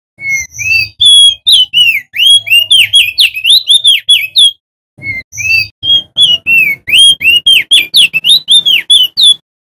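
Male opior jambul (crested white-eye) singing loud, rapid whistled phrases of sharply rising and falling notes, about four a second, in two bouts with a short break about halfway through.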